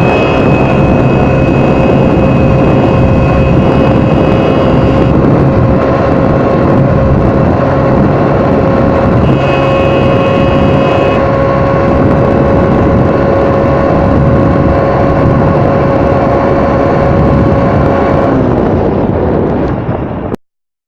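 Modified Hero Passion Pro motorcycle's single-cylinder four-stroke engine running loud at a steady pitch, with a steady whine over it. The sound cuts off suddenly near the end.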